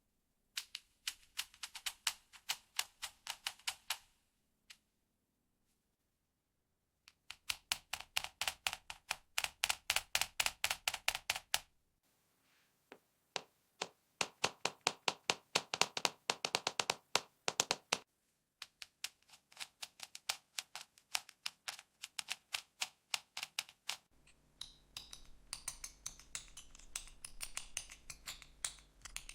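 Fingernails tapping rapidly on a makeup palette, in runs of several seconds with short pauses between, about eight taps a second. The last run is denser and has a low hum under it.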